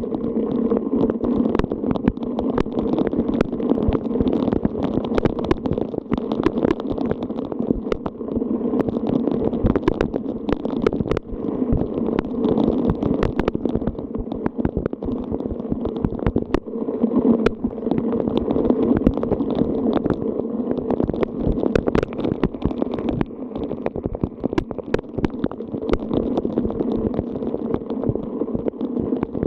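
Rain and wind: a steady low rush with many sharp drop hits throughout.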